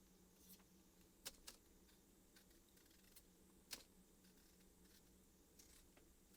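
Near silence with a faint low hum and a few faint, irregular clicks.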